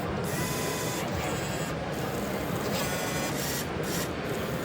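Model trains running on an exhibition layout: the steady whirring of small electric motors and wheels on track, with faint whining tones and a few brief swells of hiss.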